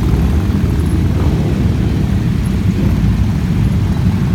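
A continuous stream of motorcycles riding past, their engines blending into one steady, loud low drone.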